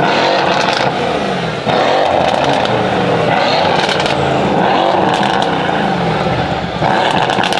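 Mercedes-AMG engine, freshly fitted with new downpipes and a tune, being revved in neutral several times, the pitch climbing and dropping back with each blip.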